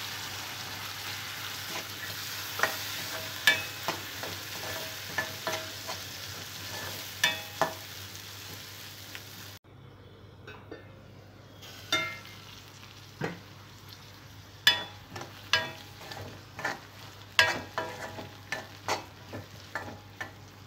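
Soaked chana dal and onions sizzling as they fry in hot oil in a metal kadai, while a steel spoon scrapes and clinks against the pan as they are stirred. The sizzle drops off suddenly about halfway through, leaving a fainter fry under repeated clinks.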